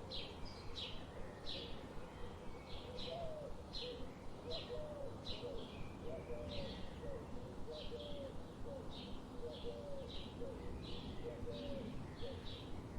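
Forest birds chirping: a steady series of short high notes, about two a second, joined from about three seconds in by a lower short hooked call repeating at a similar pace, over a low, steady background noise.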